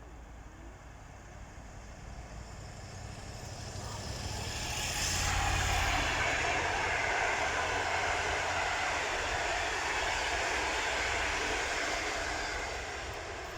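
EU160 electric locomotive hauling an intercity passenger train past at speed: rumble and wheel-on-rail noise build about four seconds in, stay loud for some seven seconds as the train goes by, then fade near the end.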